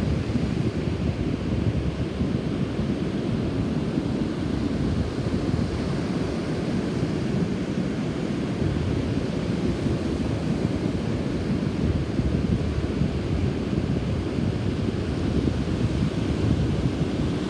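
Strong wind buffeting the microphone as a rough, typhoon-stirred sea surges onto the shore, a steady low rumble of wind and surf.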